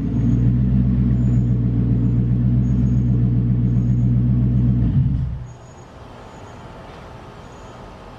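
Lexus SC400's 4.0-litre 1UZ-FE V8 running steadily at its exhaust, then switched off about five seconds in, the sound dying away quickly.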